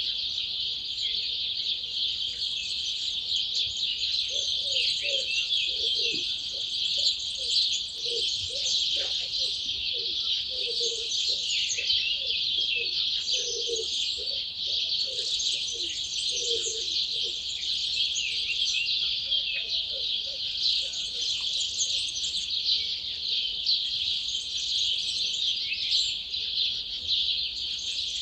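Dawn chorus: many wild birds singing at once, a dense, unbroken mix of high chirps and trills. Through the first half a lower call of short, repeated notes sounds beneath the chorus.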